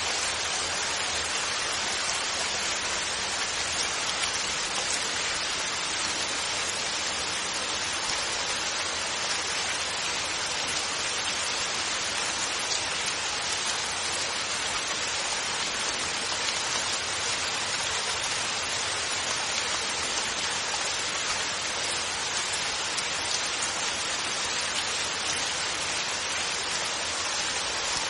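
Steady rainfall: an even, unbroken hiss of rain, with no thunder.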